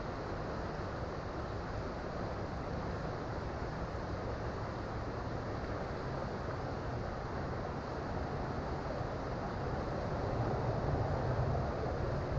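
Creek water flowing steadily over rocks, an even rushing that swells slightly near the end.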